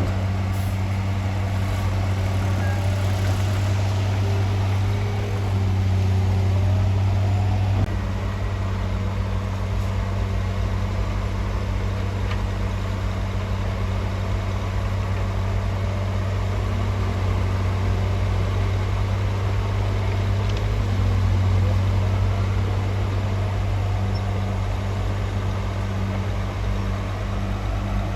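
Heavy diesel engine of earthmoving equipment running steadily at a low, even speed, with a slight drop in level about eight seconds in.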